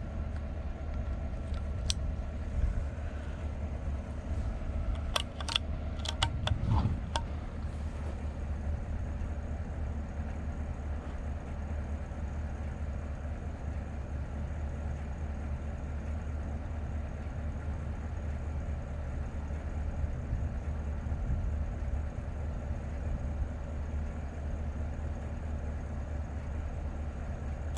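Vehicle engine idling steadily, with a few short clicks and knocks about 2 seconds in and again around 5 to 7 seconds in.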